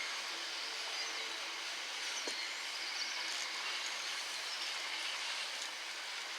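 A train on the rails: a steady rushing noise with a few faint clicks.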